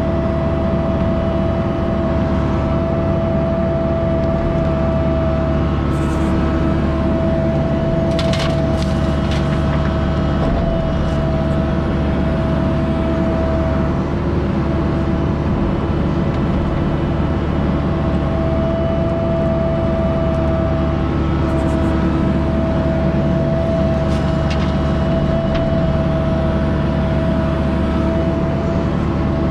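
Diesel engine of a piece of construction equipment running steadily at close range, with a steady high whine over a low rumble and a few light clicks or knocks.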